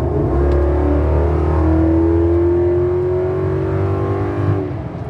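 2013 Toyota Tundra's engine and custom exhaust (long-tube headers, 3-inch duals with X-pipe, MagnaFlow and variable-tune mufflers) under hard acceleration, heard from inside the cabin. The note climbs steadily in pitch for about four seconds, then drops away near the end as the throttle closes.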